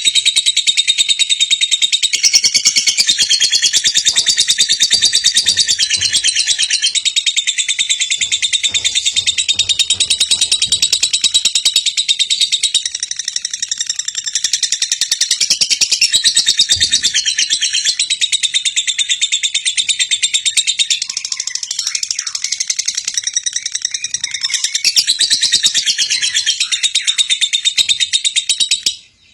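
Lovebird singing its ngekek: one long unbroken run of very fast, high-pitched chattering trill, which cuts off suddenly near the end.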